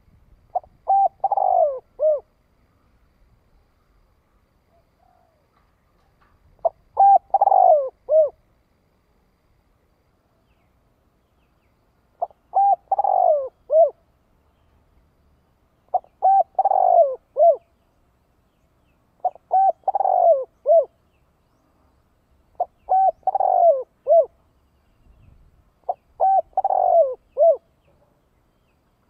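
Male spotted dove calling: seven cooing phrases a few seconds apart, each a short run of coos ending in a falling note. This is the driving decoy call that bird keepers use to lure wild male doves.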